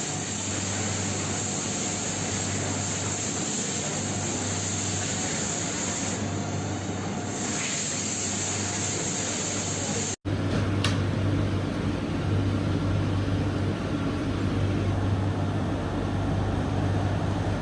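Steady hiss over a low machine hum, broken off sharply about ten seconds in and then resuming.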